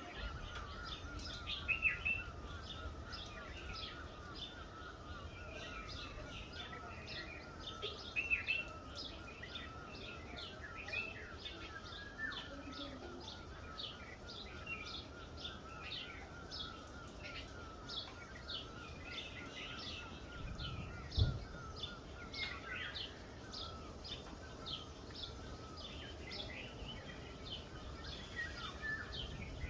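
Birds chirping, with many short chirps throughout over a steady high trill and a low background rumble. A single dull thump comes about twenty-one seconds in.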